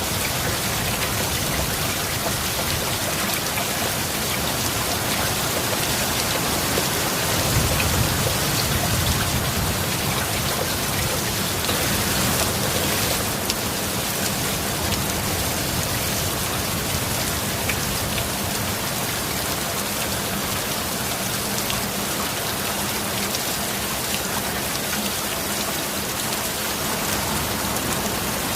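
Steady heavy rain pattering on a surface, with a low rumble that swells briefly about a quarter of the way through.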